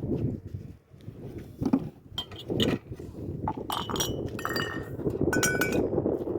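Light clinking: two clusters of sharp metal or glass strikes that ring briefly, about halfway through, after a few duller knocks.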